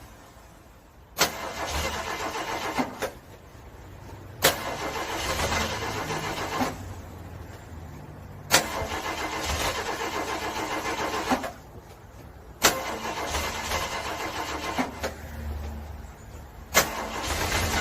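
A car engine cranked over and over by its starter in extreme cold, in five bursts of a few seconds each. Each burst opens with a sharp click and goes on as a fast, even chugging, and the engine never catches: a cold engine struggling and failing to start.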